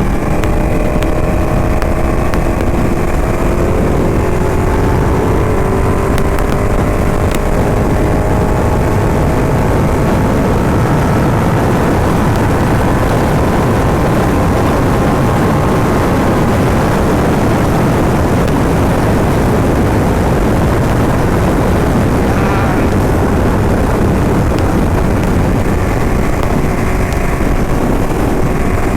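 Ducati motorcycle engine running under way, loud and steady. Its note climbs slowly over the first half, then settles into a dense, even rumble.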